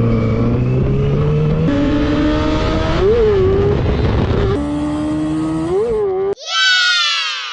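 Sport motorcycle engine running at steady revs with two short throttle blips, then a loud pass-by near the end whose pitch falls steeply. The pitch jumps abruptly a few times in between.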